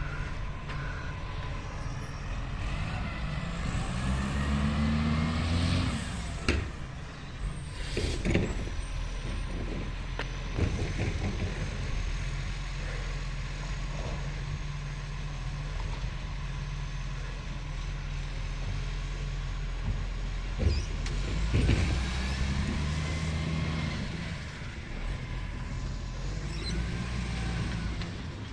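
Garbage truck on a green-waste collection: its diesel engine idles, then revs up twice with a rising whine as the bin-lifting arm is worked, with several sharp knocks and bangs around each lift.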